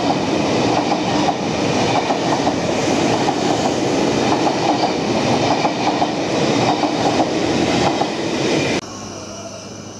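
Sydney Trains double-deck suburban electric train passing at speed, a loud steady rumble with wheels clicking over the track. The sound drops abruptly to a much quieter steady background near the end.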